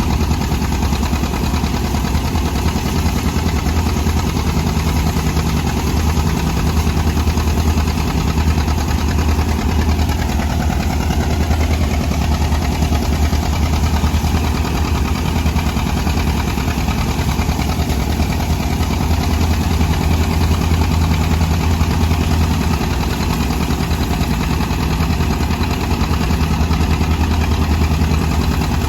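Engine of a John Deere 730 diesel tractor, a two-cylinder, running steadily at an even speed with no revving.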